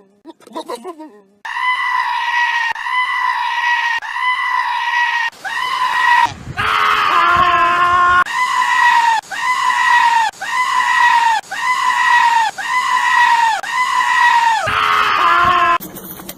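Goats bleating in shrill, scream-like calls: runs of short, high-pitched calls repeated about every half second, broken by a few longer calls.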